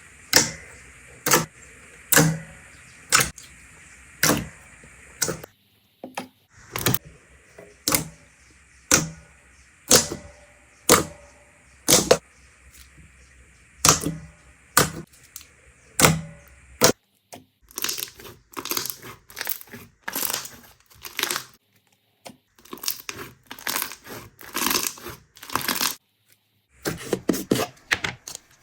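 Slime being pressed and squished by hand, with sharp popping clicks about once a second. About two-thirds of the way in, this gives way to a denser crackling, then a brief gap and another crackling run near the end.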